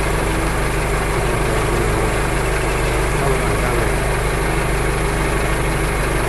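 A steady machine drone, like a motor or engine running evenly without letting up.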